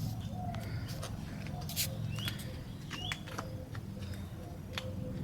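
Steady low hum with a few sharp clicks and two short rising bird chirps, about 2 and 3 seconds in.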